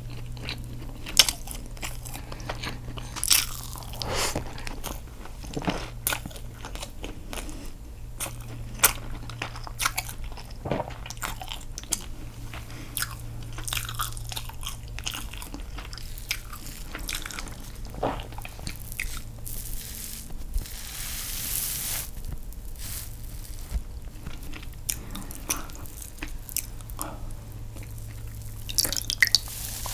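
Close-miked eating sounds: biting and wet chewing of castella sponge cake dipped in milk, with many sharp mouth clicks. About two-thirds of the way in comes a brief hiss.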